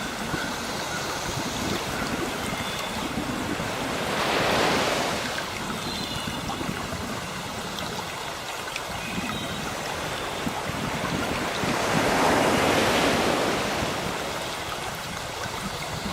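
Sea waves washing onto a shore, with two big surges about eight seconds apart over a steady hiss of surf. Birds chirp faintly in the background.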